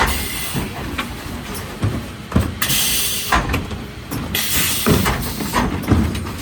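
Mercedes Econic refuse truck at work: a run of clunks and knocks over a low rumble, with two short bursts of air hiss, one about two and a half seconds in and another about four and a half seconds in.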